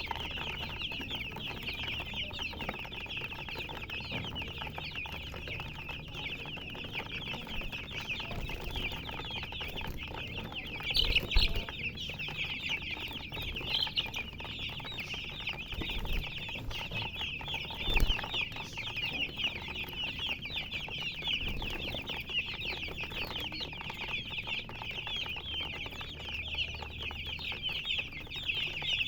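A brood of baby chicks chirping continuously, many high, short peeps overlapping. Two dull thumps stand out, one about a third of the way in and another a little past halfway.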